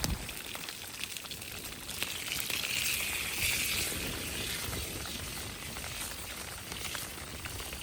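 Steady rain pattering on and around a rain shelter, mixed with small crackles and sizzling from a campfire that has trout cooking over it. A stronger hiss swells from about two and a half to four and a half seconds in.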